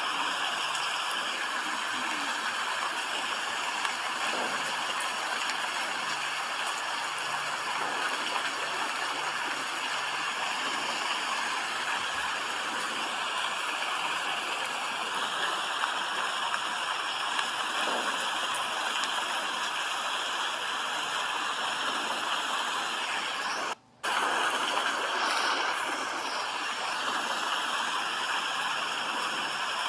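Steady rain: an even, constant hiss of falling water, broken by one brief dropout of well under a second about four-fifths of the way through.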